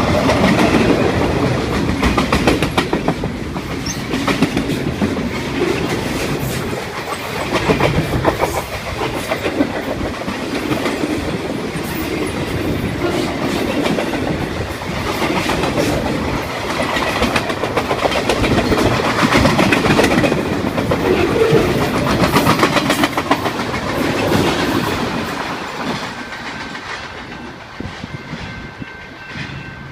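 Railroad cars of a long train rolling past, their wheels clicking steadily over rail joints; the sound fades over the last few seconds.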